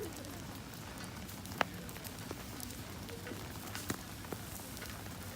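Steady rain pattering with a wood campfire crackling. A few sharp pops stand out, the loudest about one and a half seconds in.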